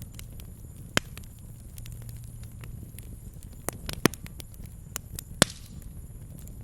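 Campfire wood crackling with irregular sharp pops, the loudest about a second in, about four seconds in and just after five seconds, over a low steady rumble.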